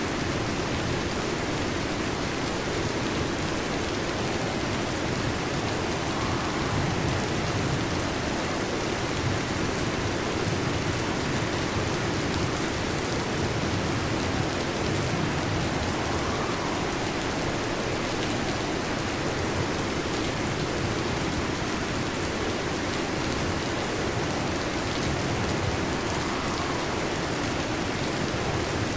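Heavy rain falling steadily on a metal roof, a dense, even hiss of drops with no breaks.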